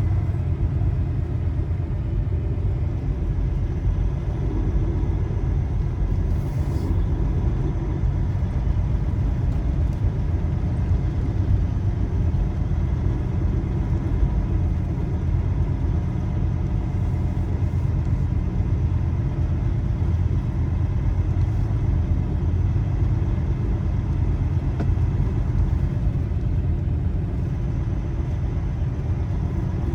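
Semi-truck running with a steady low rumble.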